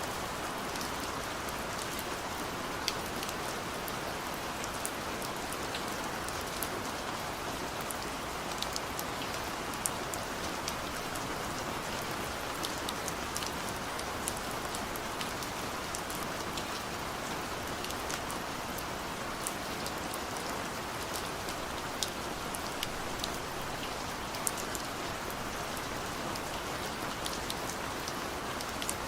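Steady rain falling, an even hiss with scattered sharp drips and drop ticks over it.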